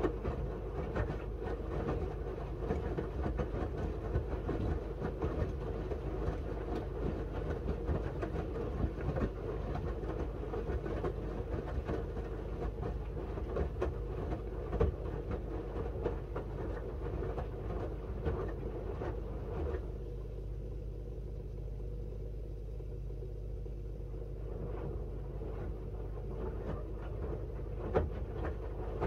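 Miele W1 front-loading washing machine mid-wash: the drum turns with wet linen bedding tumbling and clattering irregularly over a steady motor hum. About twenty seconds in the tumbling pauses for a few seconds, leaving only the low hum, then the drum starts turning again near the end.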